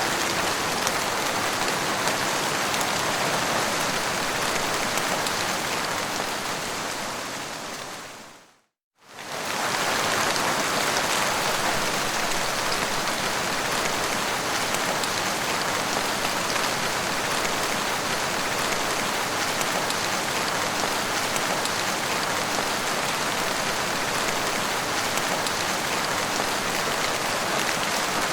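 Steady rain falling, an even, unbroken hiss. About six seconds in it fades away to a moment of silence, then comes straight back at full strength.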